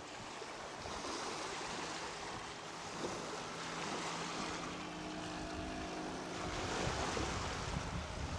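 Model floatplane's Saito 100 four-stroke glow engine running steadily in flight, a distant drone. Wind noise on the microphone swells near the end.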